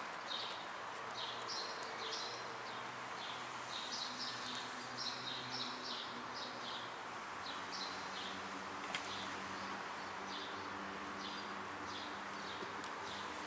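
Small birds chirping in quick repeated high notes, over a steady hiss of outdoor background noise.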